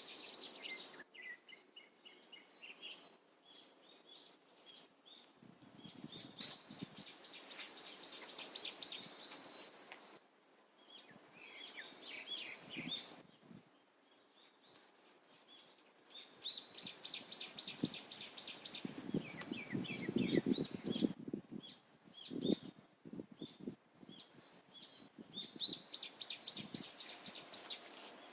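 Wild songbirds singing: one bird repeats a fast, high trill of evenly spaced notes for a few seconds at a time, about four times, while other birds chirp in between. A brief low rustle comes about two-thirds of the way through.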